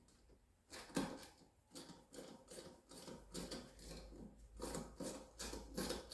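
Hand tools working on a motorcycle wheel's stubborn fasteners: a run of short, irregular metal clicks and scrapes, a few a second, with a louder click about a second in.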